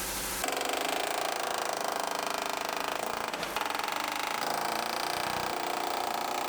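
A power tool running with a fast, even chatter, starting about half a second in with a brief dip about halfway through.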